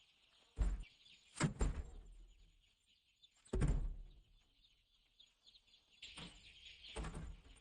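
Young chickens cheeping in a high, busy chorus, with about six sudden knocks or thumps spread through it.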